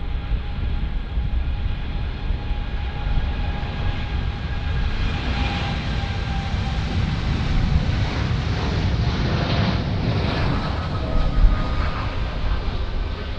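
Jet airliner engines whining over a low rumble, with several steady high tones. The rushing hiss of the engines swells in the middle and eases near the end.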